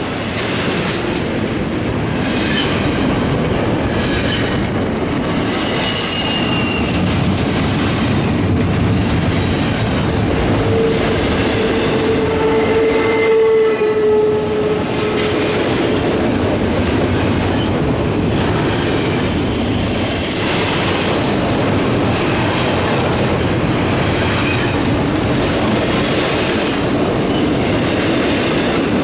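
Long double-stack intermodal freight train rolling past close by: steady rumble and clatter of wheels over the rails, with thin high-pitched wheel squeals now and then. Near the middle a held tone sounds for a few seconds.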